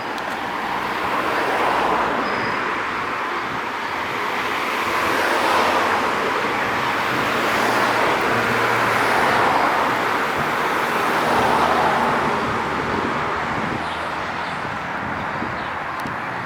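Road traffic: cars passing one after another, their tyre and engine noise swelling and fading about four times.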